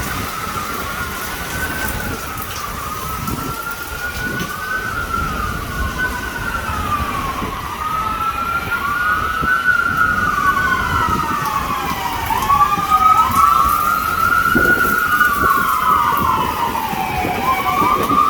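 Several sirens wailing at once and out of step, each slowly rising and falling in pitch, over the steady hiss of heavy rain. They grow louder in the second half.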